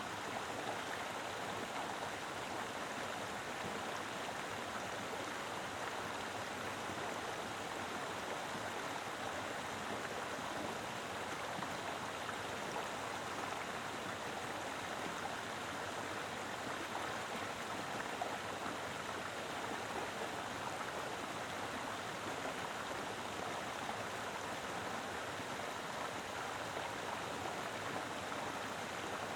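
Mountain river flowing over rocks: a steady rush of moving water.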